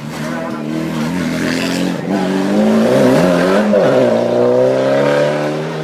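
Hillclimb race car engine accelerating hard through the gears. The engine note climbs, dips briefly at gear changes about two and four seconds in, then climbs again.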